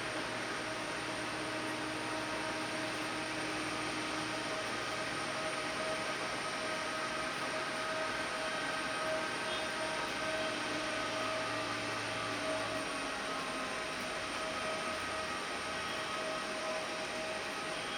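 Jet airliner engines running at the airport: a steady rush with a constant whine over it.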